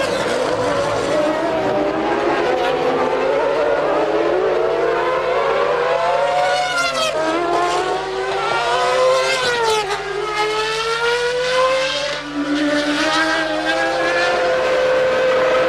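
Formula One race car engines at high revs, several of them. Their pitch climbs through the gears and falls away sharply twice, about seven and ten seconds in.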